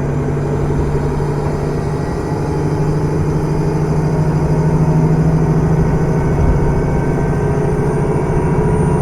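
Diesel engine of a KiHa 110 series railcar running with a steady throb, heard from inside the car. Its note rises a little and gets louder a few seconds in.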